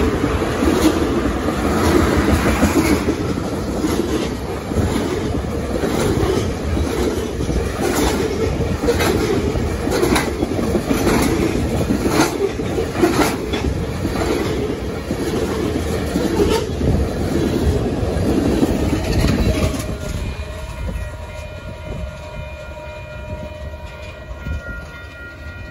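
Tank cars of a freight train rolling past at close range: a steady rumble with a rhythmic clickety-clack of wheels over rail joints, which fades after about twenty seconds as the end of the train passes and moves away. In the last few seconds a faint, held multi-note train horn sounds in the distance.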